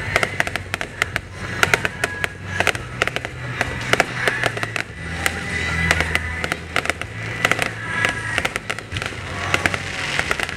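Aerial fireworks bursting and crackling, many sharp cracks in quick succession, with music playing underneath.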